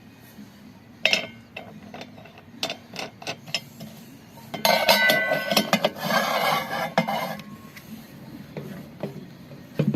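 Metal tools clinking and knocking on metal washing machine parts: scattered sharp taps, then about three seconds of continuous metallic rattling and scraping around the middle.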